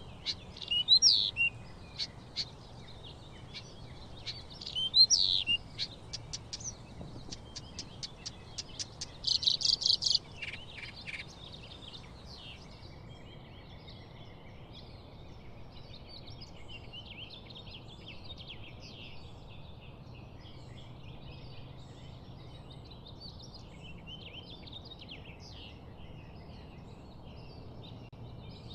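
Birds chirping and calling: several loud, close, high calls and rapid chirps in the first ten seconds, then a fainter, continuous chorus of many birds chattering.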